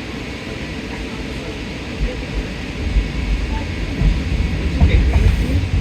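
Low rumble and rattle of the JFK AirTrain automated people-mover, growing louder with low thumps about two seconds in.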